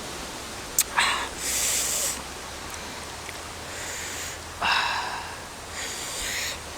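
A person breathing and sniffing in a few short, hissing bursts, with a couple of sharp clicks.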